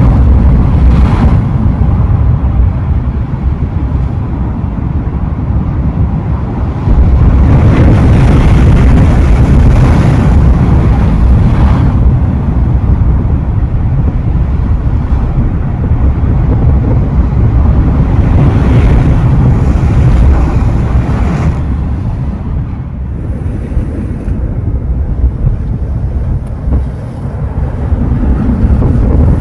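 Ocean waves breaking and washing up the shore, with wind buffeting the microphone in a constant low rumble. Bigger washes of surf swell up about seven seconds in and again about eighteen seconds in.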